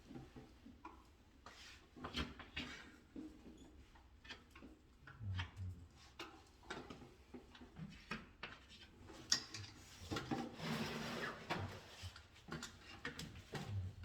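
Scattered small clicks, taps and knocks of hand work with tools and parts, with a longer stretch of rubbing and rustling about ten seconds in.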